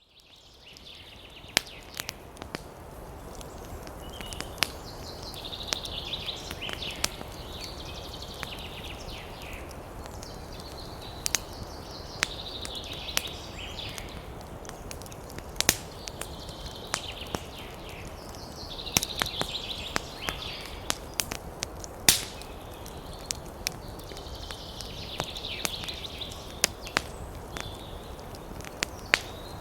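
Wood fire crackling, with many irregular sharp pops over a steady low rush of burning. High chirping comes and goes every few seconds behind it.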